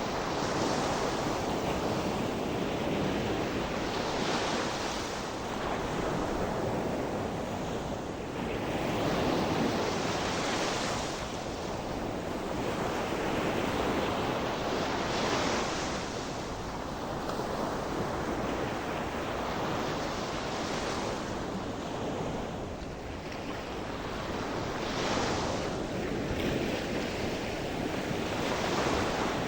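Sea surf: waves breaking and washing up the shore in a continuous rush, with a fresh break every few seconds. Wind on the microphone runs under it.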